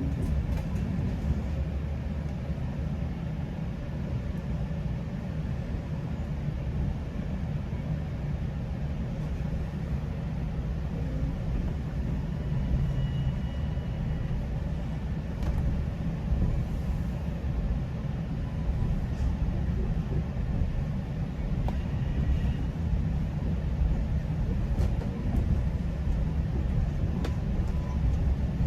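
Steady low rumble of a GO Transit commuter train, heard from on board.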